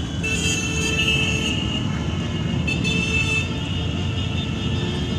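Motorcycle engines running as a column of motorcycles rides past, with two long horn toots sounding over the engine noise, about a second each, near the start and about three seconds in.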